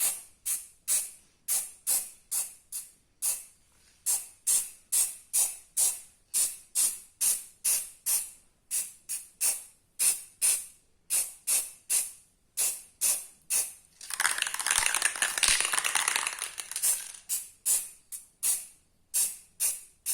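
Aerosol can of heat-resistant paint being shaken, its mixing ball rattling in a steady rhythm of about two to three strokes a second. About 14 seconds in, the shaking stops for a spray burst of about three seconds, then the shaking resumes.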